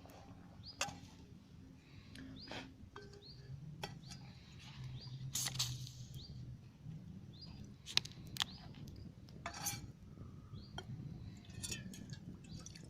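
Small birds giving short, high chirps now and then, over scattered sharp clicks and snaps.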